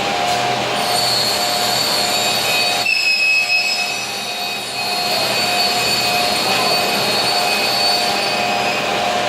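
Weeke BMG 111 CNC wood machining centre running, a high spindle whine over steady machine noise. About three seconds in the whine changes pitch and briefly drops in level, then settles again.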